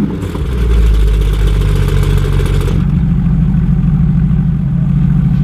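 Mercedes-Benz SLS AMG's 6.2-litre V8 through an Akrapovič exhaust, idling just after a start. The idle settles about three seconds in and stays steady.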